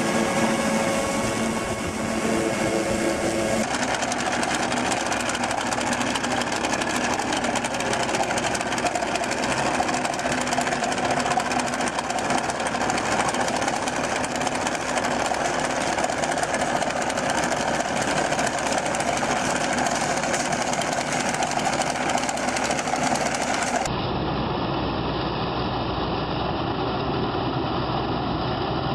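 Heavy machinery engines running steadily, with abrupt changes in sound about 4 seconds in and again near the end as one machine recording gives way to another.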